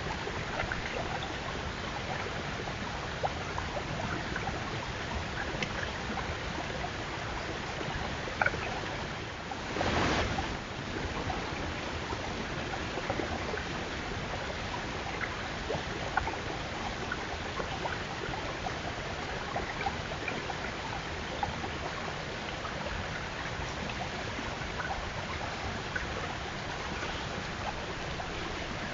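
Steady hiss of outdoor noise on a trail-camera microphone, with scattered small crunches and clicks from white-tailed deer chewing apples. A brief louder rush comes about ten seconds in.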